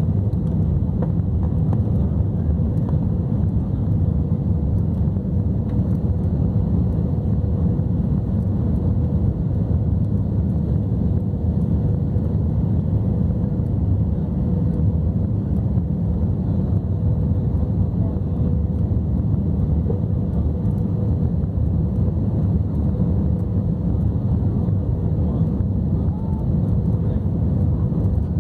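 Steady low rumble of a jet airliner's engines and airflow heard from inside the passenger cabin, with a faint steady hum on top.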